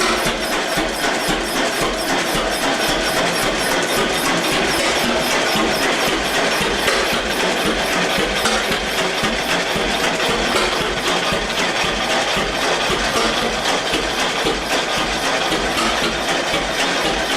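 The two-cylinder engine of a 1919 Eagle 12-22 tractor running steadily.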